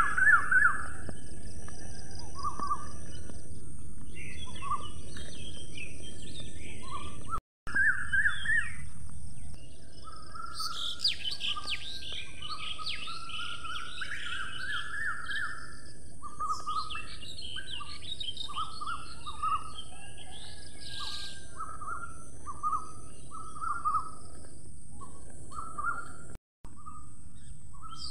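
Several birds singing and chirping, with quick warbled phrases and a repeated short chirp about once a second in the second half, over a steady hiss. The sound cuts out for a split second twice.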